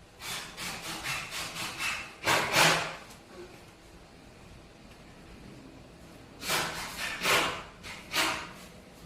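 Rough scraping strokes, wood-on-wood or saw-like, a few a second in two bouts with a pause between; the loudest are two longer strokes about two and a half seconds in.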